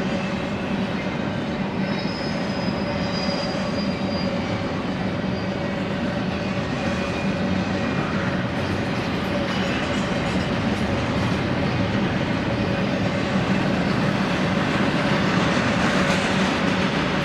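Double-stack container cars of a freight train rolling past: a steady rumble of steel wheels on rail, with brief high wheel squeals a couple of times, getting a little louder near the end.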